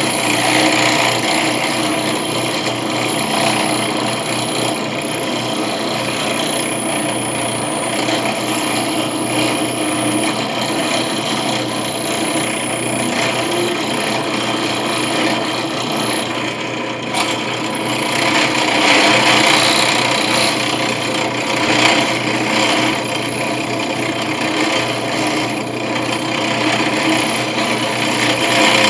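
A power tool running continuously with a rasping cutting sound over a steady whine, the level holding nearly even with small swells.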